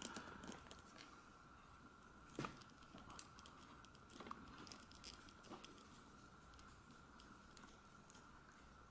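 Near silence with faint handling of a plastic S.H.Figuarts action figure: a few light clicks and taps as fingers adjust its arms and hands, the loudest a little over two seconds in. A faint steady high tone sits underneath.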